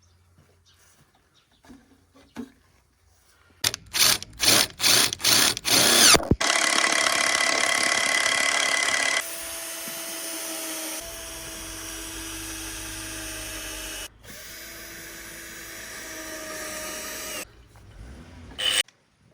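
Electric power tool working wood: a few short bursts, then longer steady runs that break off twice and stop near the end.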